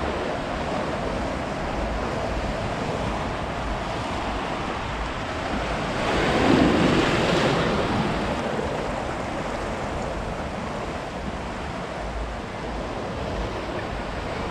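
Ocean surf washing steadily onto a beach, with one wave breaking louder about six seconds in, and some wind rumbling on the microphone.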